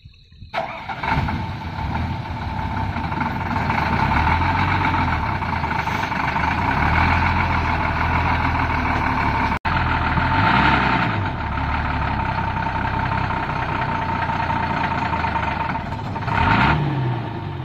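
Diesel engine of a Hino six-wheel-drive conversion truck, stuck in mud, running hard under load. It starts abruptly about half a second in and revs up and down twice in the second half.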